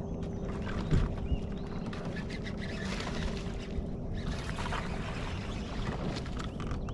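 Steady low hum and rushing noise of a small bass boat on the water, with scattered light clicks and a knock about a second in.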